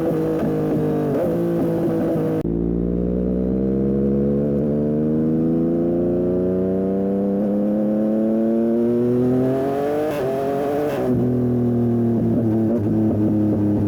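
Yamaha MT-09 SP's inline three-cylinder engine running through a Dominator aftermarket exhaust under load. Its pitch climbs slowly for several seconds, there is a brief change about ten seconds in, and then it holds steadier.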